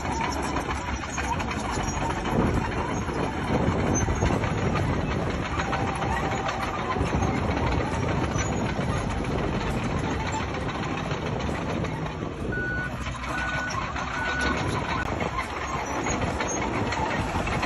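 Heavy bulldozer engine running steadily at work, with three short reversing beeps about a second apart about two-thirds of the way through.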